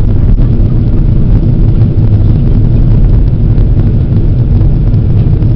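Steady, loud low rumble of a Boeing 767-400 airliner's engines and airflow, heard from inside the passenger cabin on the approach to landing.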